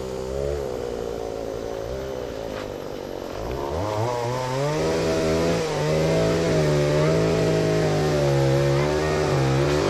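A small engine running. Its pitch rises about four seconds in, then holds with a slight waver.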